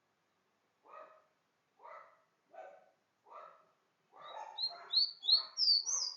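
A dog barking repeatedly, about one bark a second. Over the last two seconds a small bird adds a quick run of six or so high, loud chirps that slide up and down in pitch.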